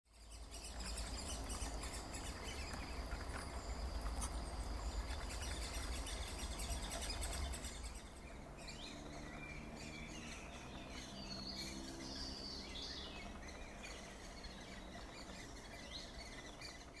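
Outdoor bird calls and chirping, over a strong low wind-like rumble during the first half. The rumble drops away about eight seconds in, leaving short, separate chirps.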